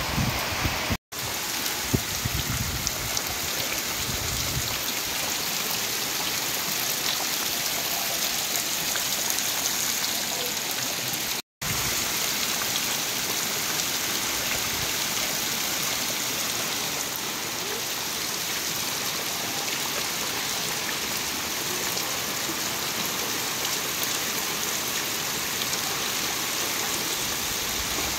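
Heavy rain pouring steadily onto waterlogged, puddled ground and trees: a dense, even hiss of falling water. A few low thumps sound in the first few seconds, and the sound cuts out for an instant twice, about a second in and again near the middle.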